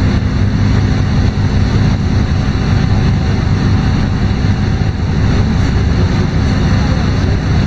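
LiAZ-5292.22 city bus under way, heard from inside the passenger cabin: its diesel engine and road noise make a steady, loud drone with a constant low hum.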